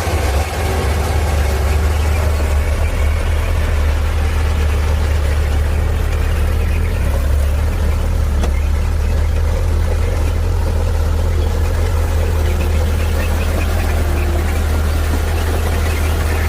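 Heavy diesel engine of earthmoving equipment running steadily with a deep, even rumble.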